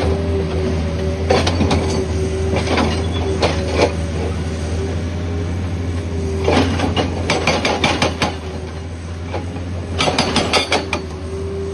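Heavy earthmoving machinery clearing landslide debris: an engine running steadily, with several bursts of sharp clanking and scraping of rock and metal.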